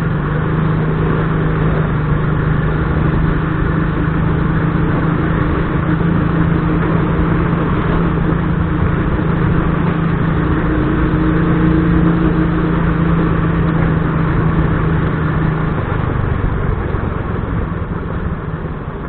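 Motorcycle engine running steadily under way, with a constant hum over road and wind noise.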